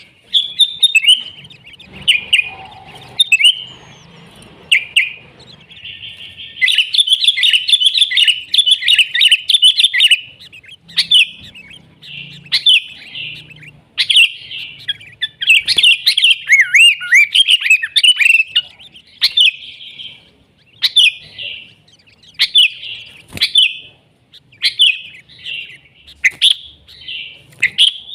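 Sooty-headed bulbuls (kutilang) singing vigorously: rapid chattering phrases of quick notes and glides. The song is densest in two long runs, then breaks into shorter separate phrases in the second half.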